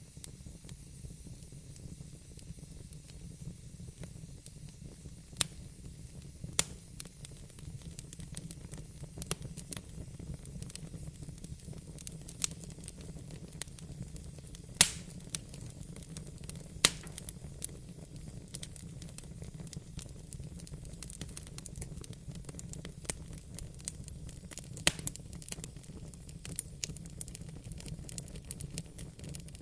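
Wood fire burning in a fireplace: a steady low rumble and hiss of the flames with irregular sharp crackles and pops, a few much louder than the rest.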